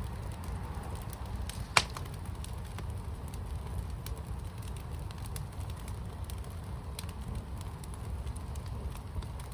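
Fire in a firepit crackling, with scattered small pops and one sharp, loud pop a little under two seconds in, over a steady low rumble.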